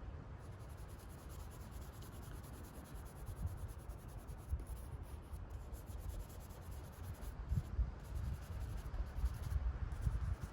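Drawing tool rubbing and scratching across paper as a background is coloured in, in irregular strokes, over a low rumble.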